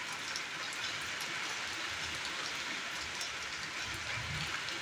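Heavy rain falling steadily, a constant hiss scattered with the ticks of individual drops hitting surfaces.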